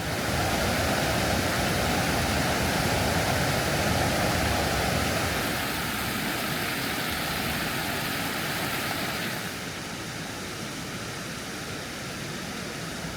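Steady rushing of a mountain stream, its even hiss growing a little quieter and duller about ten seconds in.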